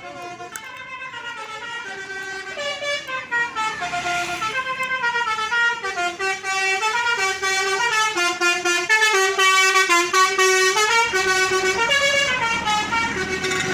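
Bus's multi-tone 'telolet' horn playing a tune of sustained notes that step up and down in pitch, growing louder over the first few seconds.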